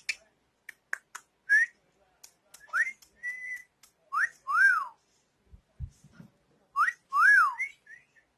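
A pet bird whistling: a few sharp clicks, then short rising whistles, then two longer whistles a few seconds apart in which a falling and a rising note slide across each other at the same time.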